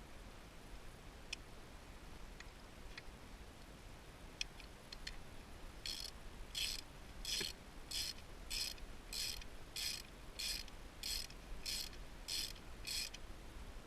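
Socket ratchet wrench worked back and forth on a spark plug, giving about a dozen evenly spaced runs of ratchet clicks starting about six seconds in. Before that come a few light clicks of tool handling.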